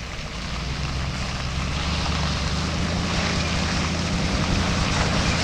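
Chevrolet C60 truck's gas V-8 engine running steadily, growing gradually louder.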